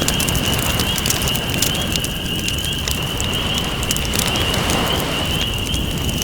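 Campfire crackling with many sharp pops over a steady wash of ocean waves, with a wave swelling about four seconds in. A steady high-pitched trill sits behind it.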